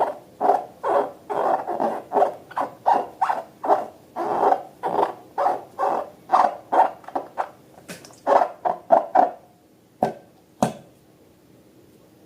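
Slime being squeezed and kneaded by hand, wet squelching sounds repeating about two or three times a second. The squelching stops about nine and a half seconds in and is followed by two sharp clicks.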